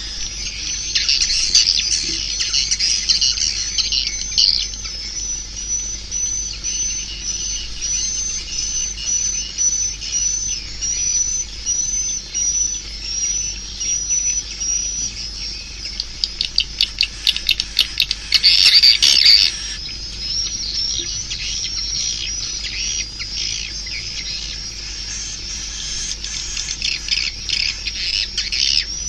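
Swiftlet calls: a long series of short, high, repeated chirps at about two a second, with a run of rapid clicks and a loud chattering burst about two-thirds of the way in. This is the kind of swiftlet call recording played to lure swiftlets into a nesting house.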